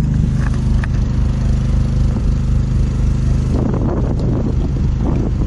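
An engine idling steadily with a low, even hum. About three and a half seconds in, a rougher, busier sound joins it.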